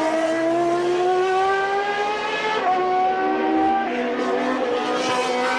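1989 Formula One car's naturally aspirated 3.5-litre racing engine at high revs under acceleration. Its pitch climbs steadily, drops sharply at a gear change about two and a half seconds in, and climbs again.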